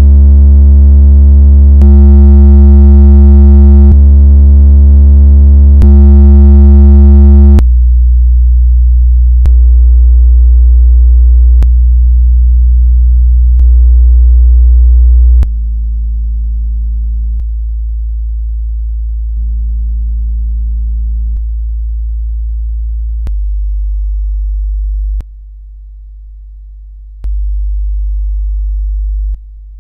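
Low-frequency test tones played back through the JBL Boombox and Sony GTK-XB90 Bluetooth speakers, steady bass notes held about two seconds each and stepping down in pitch. Alternate steps carry a buzzier overtone. In the lowest steps the level swings between a much quieter tone and a louder one, as one speaker fails to reach the deepest notes.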